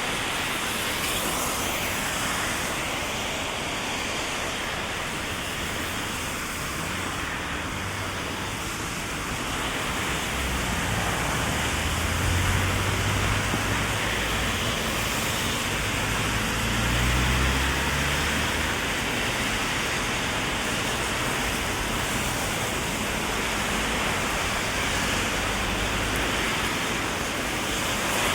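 Heavy rain falling steadily, a dense even hiss, with the low rumble of passing traffic swelling up between about ten and nineteen seconds in.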